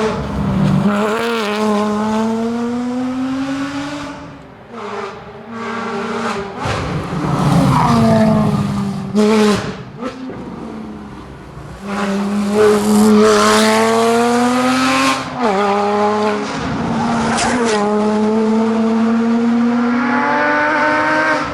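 Porsche Cayman GT4's 3.8-litre flat-six engine driven hard, its pitch climbing through each gear and dropping at each upshift, several times over. It eases off twice, about four and ten seconds in, before pulling hard again.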